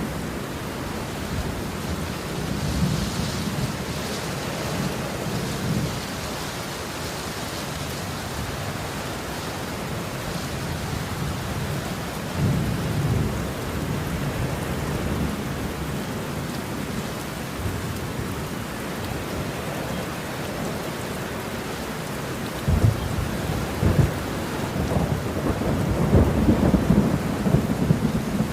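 Steady rain falling through a thunderstorm, with low thunder rumbling several times. Two sharp thunder cracks come close together late on, followed by a longer, louder rumble.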